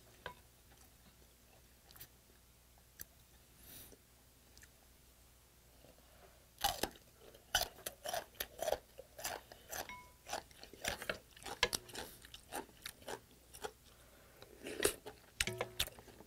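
Close-miked crunchy chewing of kimchi. It starts about six and a half seconds in after a quiet stretch, runs in quick crackly bites, and pauses briefly before starting again near the end.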